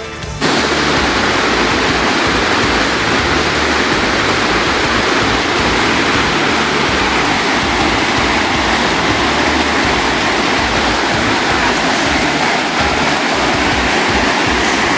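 Steady rushing of a waterfall, a constant roar of falling water.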